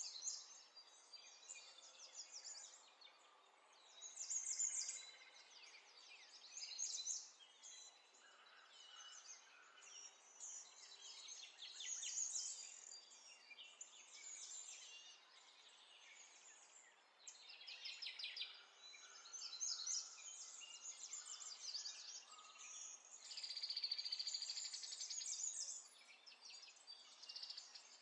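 Faint, scattered bird chirps and twitters, with a longer buzzy trill a little before the end.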